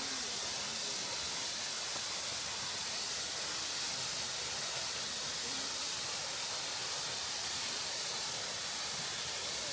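Waterfall rushing, a steady even hiss of falling water with no breaks.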